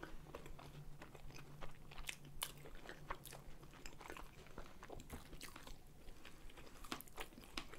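Close-miked chewing of curd-filled pancakes (blini with tvorog), with many short, soft mouth clicks throughout. A faint low hum runs under it for the first three seconds or so.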